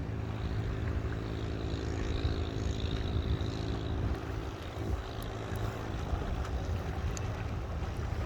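Small boat engine running steadily, a constant hum over water and wind noise that eases slightly about halfway through.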